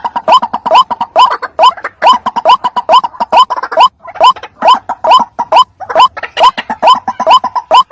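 White-breasted waterhen calling: a fast, steady series of rising 'kwak' notes, about three a second, as played for a bird lure.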